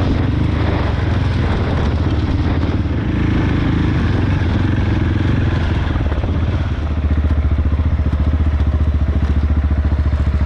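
Single-cylinder adventure motorcycle engine running steadily on the move, with wind rush. About seven seconds in, the engine note gets a little louder and more even.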